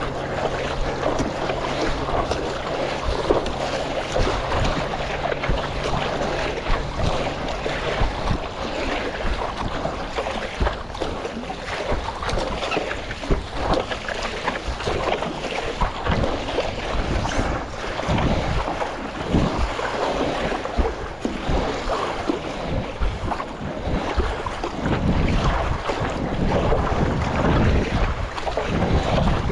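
Wind buffeting the microphone over splashing water and surf, in uneven gusts. A low steady hum runs underneath and stops about eight seconds in.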